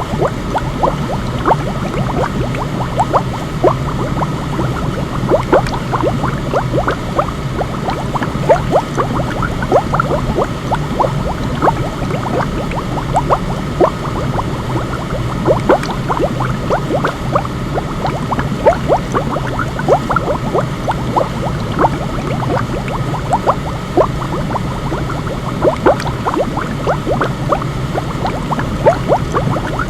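Continuous bubbling water, many small bubbles popping each second over a steady low rumble of noise.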